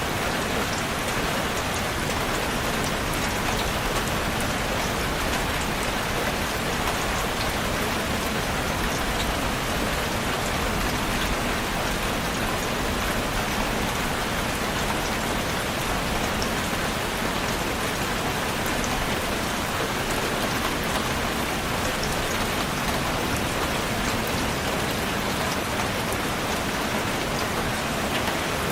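Steady rain falling on a surface, a dense even hiss with fine drop ticks and no pauses.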